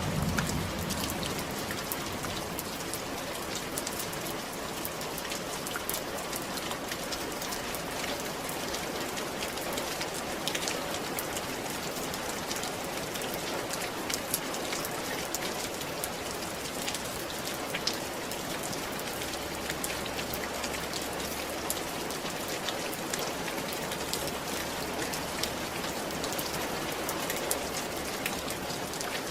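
Steady rain falling on a roof, an even hiss with many sharp ticks of separate drops.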